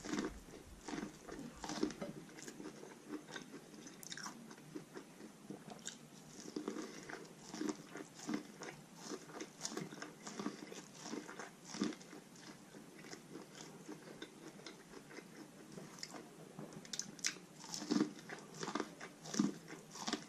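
A person biting and chewing corn on the cob: a run of irregular crunches and chewing sounds, with a few louder bites scattered through.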